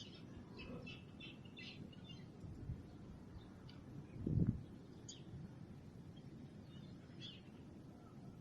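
Small birds chirping intermittently in short high calls at dawn, with a short low thump about halfway through.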